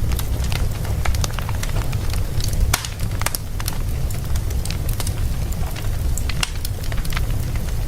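Wood fire crackling and popping in a fireplace, irregular sharp pops over a steady low rumble.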